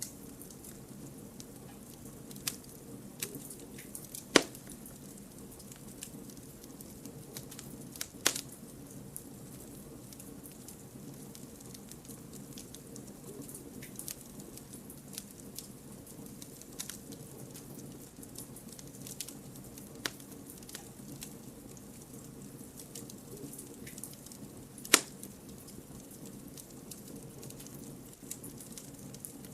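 Wood campfire burning, a steady low rustle of flame with scattered crackles and pops from the logs; three sharper pops stand out, about four, eight and twenty-five seconds in.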